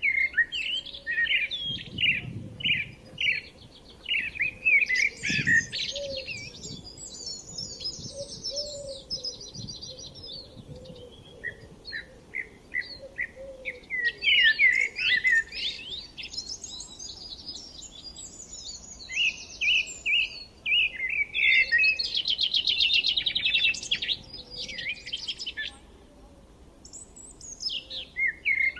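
Several songbirds singing at once: bursts of quick chirps and rapid trills that come in waves, with brief lulls between them.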